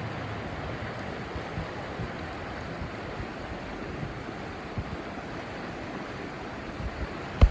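River rapids rushing steadily as an even wash of water noise. One sharp knock comes near the end.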